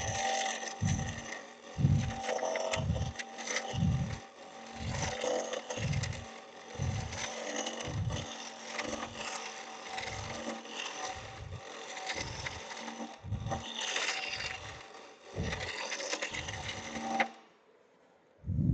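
Turning tool cutting into an out-of-round log spinning between centers on a wood lathe, roughing it true: a continuous rough cutting noise with low thumps about once a second. It stops suddenly near the end.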